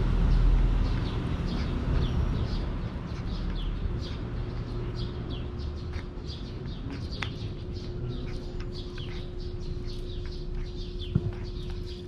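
Small birds chirping over and over, with a low rumble loudest at the start and a steady low hum that comes in about five seconds in. A cat eats wet food from a steel bowl close by, with a few sharp clicks, the strongest near the end.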